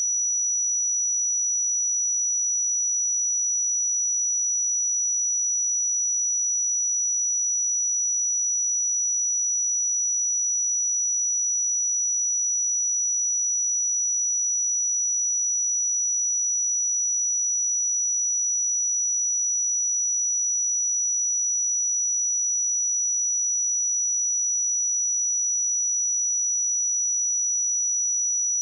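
A pure 5878 Hz sine-wave test tone: one steady high-pitched whistle-like tone, constant in pitch and level, for checking speakers or headphones.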